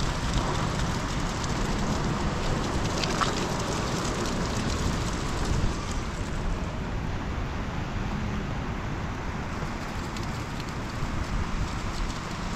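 Steady rain with a low, uneven rumble of wind on the microphone.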